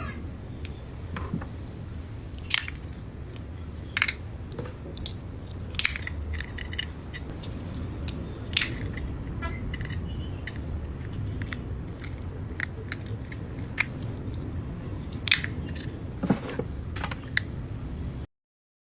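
3D-printed plastic toothbrush cap being snapped open and clicked shut, with sharp plastic clicks every second or few and lighter handling taps between, over a steady low background hum. The sound stops suddenly near the end.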